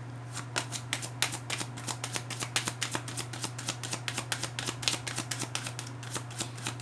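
Tarot cards being shuffled by hand: a quick run of soft card clicks starting about half a second in, over a steady low hum.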